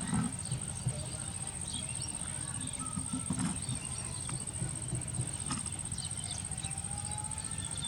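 Outdoor rural ambience: scattered short bird chirps over a steady, thin high-pitched whine and a continuous low rumble.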